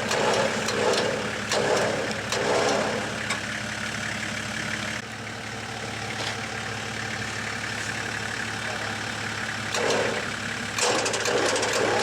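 Motorcycle engine idling steadily, with a run of louder noise bursts in the first three seconds and again near the end.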